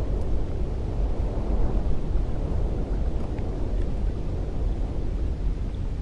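Cold wind blowing steadily, a deep rumbling rush with most of its noise low in pitch.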